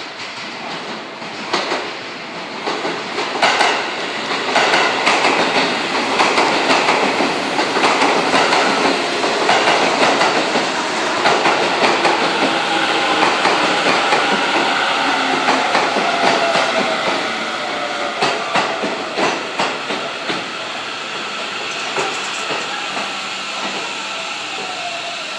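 Seibu 30000 series 'Smile Train' electric multiple unit pulling out of the station. Its wheels click over rail joints, and a motor whine glides in pitch as the cars pass, loudest in the middle and easing off near the end.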